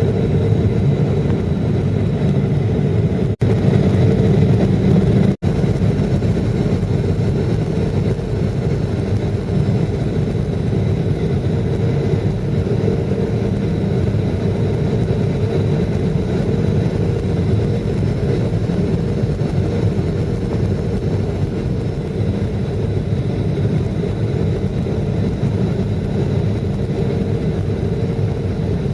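Jet airliner cabin noise: steady engine and airflow rumble with a faint steady whine, broken by two very brief dropouts about three and five seconds in.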